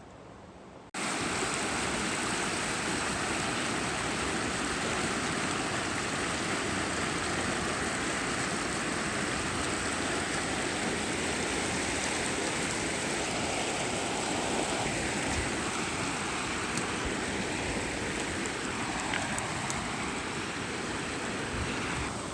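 Steady rushing water, starting suddenly about a second in.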